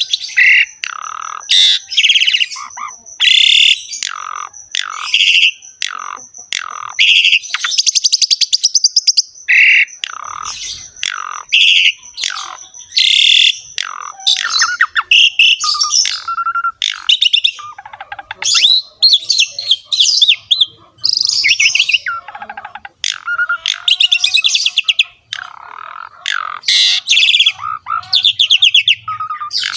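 Asian pied starling (jalak suren) singing a long, varied song of whistles, chatters and quick rattling phrases with hardly a pause. A thin, steady high tone runs beneath the song for about the first half, then stops.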